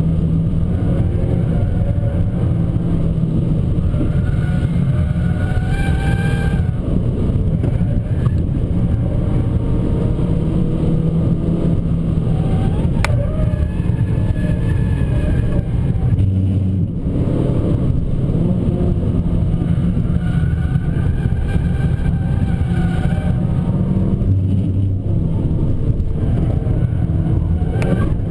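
Abarth 595 Competizione's turbocharged 1.4-litre four-cylinder engine pulling hard under load, its pitch climbing through the revs several times and dropping briefly twice as the driver lifts or shifts.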